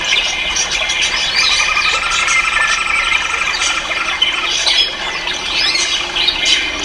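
Dense chorus of many caged ornamental birds calling at once: countless overlapping high chirps and squawks, with a longer trill about two seconds in.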